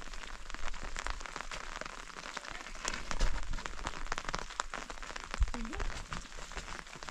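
Heavy rain falling, with many separate drops striking at an uneven rate. A short rising pitched sound cuts in about five and a half seconds in.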